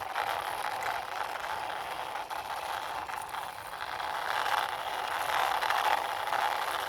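Plastic wheels of a toy tanker truck rolling along a hard surface as it is pushed by hand, a steady grainy rolling noise that swells a little in the second half.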